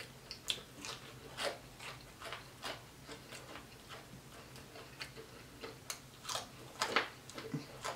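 Close-miked eating of crispy fried fish: irregular sharp crunches and wet mouth clicks while chewing, a few louder ones about six to seven seconds in.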